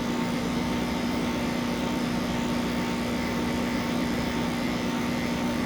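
Electric pet grooming clippers running with a steady, even hum.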